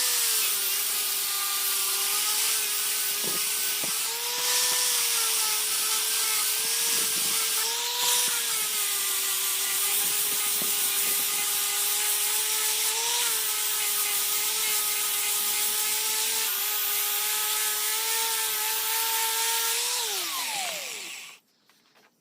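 Electric power tool motor running continuously with a steady whine and a hiss, its speed wavering a little as it works. About 20 seconds in it is switched off and whines down in pitch to a stop.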